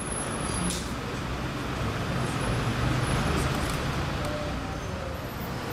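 Bugatti Chiron's quad-turbocharged W16 engine idling with a steady low rumble.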